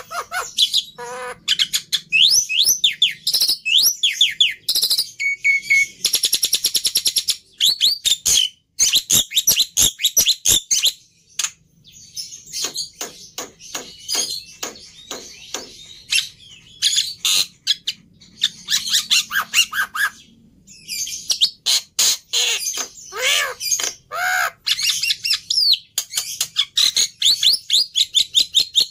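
Black-winged myna (jalak putih) singing a long, varied song of whistles, rapid chattering trills and clicking notes, with a harsh buzzy rasp about six seconds in.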